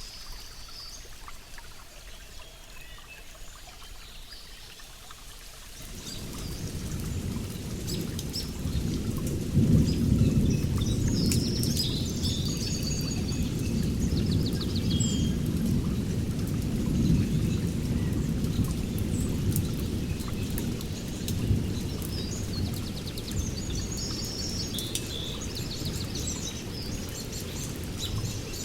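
Rain falling while birds chirp. About six seconds in, a long low roll of thunder swells in and rumbles on to the end, loudest a few seconds after it begins.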